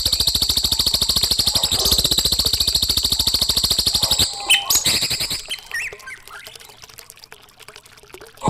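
Recorded bird song played as a masteran for cage birds: a fast, even trill with a high ringing tone. About four seconds in it breaks into a few scattered chirps, then goes quieter until the trill starts again at the end.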